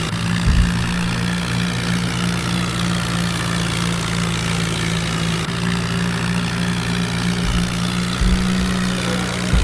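Swaraj tractor's diesel engine running at a steady speed, with a few brief low thumps about half a second in and again near the end.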